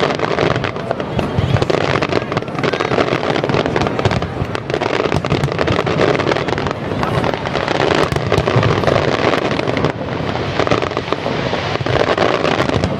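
Fireworks display going off in rapid succession: a dense, continuous run of booming shell bursts and crackle with no pause.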